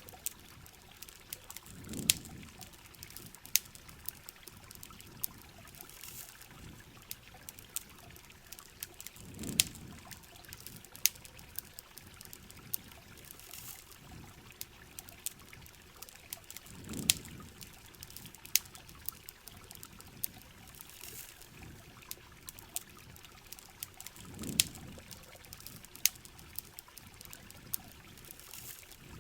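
Rain and campfire ambience: a steady hiss of rain with many sharp crackling pops from the fire, and a low trickling gush of water that comes back about every seven and a half seconds.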